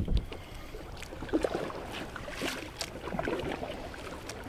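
Water sloshing and dripping around a small paddled boat, with scattered light knocks and clicks on the hull over a low rumble.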